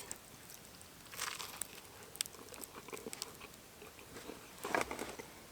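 A person eating curry from a camp pot: faint scattered clicks and scrapes of a spoon and chewing, a little louder about a second in and again near the end.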